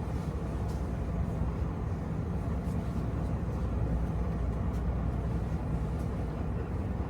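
Heavy diesel truck engine running, a steady low rumble with a few faint ticks.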